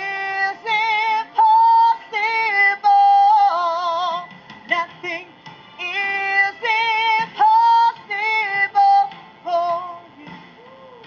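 A woman singing a slow gospel worship song solo, holding notes with a wide vibrato in short phrases separated by brief breaths.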